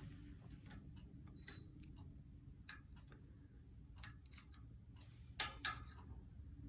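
Scattered light clicks and taps from an African grey parrot playing with a plastic back scratcher. Two louder clicks come close together about five and a half seconds in.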